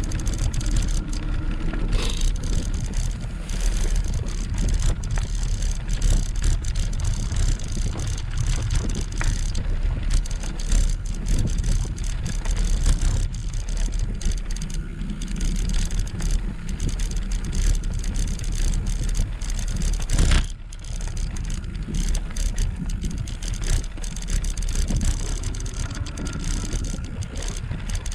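Wind rushing over a GoPro's microphone and tyre rumble from a Gtech e-bike on the move, with a sharp knock about twenty seconds in.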